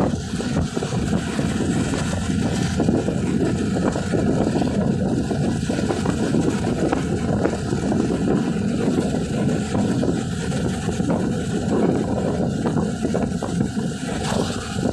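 Honda TMX 125 motorcycle's single-cylinder four-stroke engine running steadily on the move, with wind noise on the microphone.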